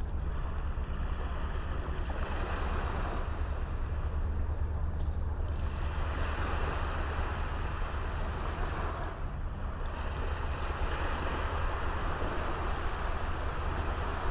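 Small sea waves breaking and washing up on a beach, swelling and falling back every few seconds, over a low rumble of wind on the microphone.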